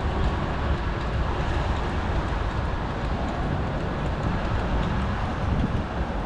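Wind rushing over a bicycle-mounted action camera's microphone, with tyre and street noise from riding along a city road: a steady, rough rumble.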